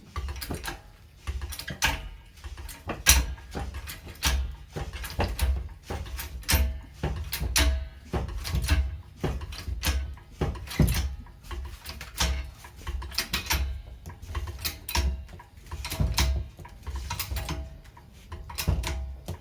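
Irregular clinks and knocks of metal tools and parts being handled, some leaving a short ring, over a low rumble.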